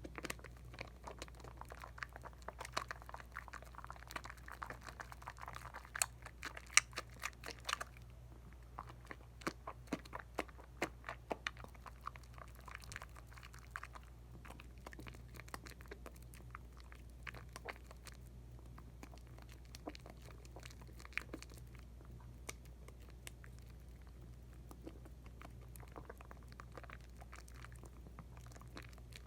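Bar of Dial coconut soap being lathered by hand: quiet wet squishing and crackling of soap suds. The crackles come thickest over the first several seconds, then thin out.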